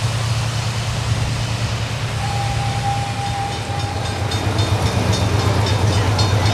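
A vehicle running with a steady low hum. About two seconds in, a thin steady tone sounds for roughly two seconds; from about four seconds in, regular light ticking joins.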